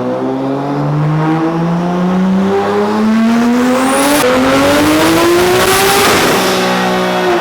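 Big-turbo Toyota Supra's engine making a dyno pull: the revs climb steadily for about six seconds, then drop away as the throttle is lifted near the end.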